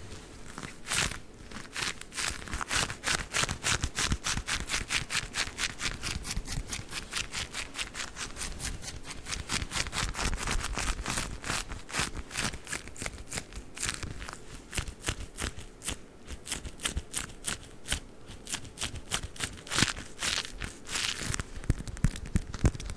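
Green sticky gloves being pressed and pulled apart, giving a quick, steady run of sticky, crackling taps, several a second.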